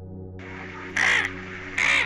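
Two short, harsh, crow-like caws from a bird, about a second in and again near the end, over steady background music.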